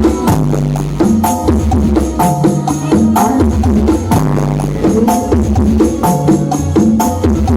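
Loud music with heavy bass played over a large mobile carnival sound system (IMS Audio 'sound horeg' rig), a short beat-and-melody phrase repeating about once a second.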